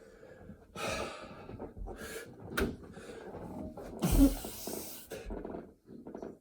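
A man breathing hard and blowing out in short gusts mid-set of burpees, with one loud forceful exhale about four seconds in that comes with a low thump.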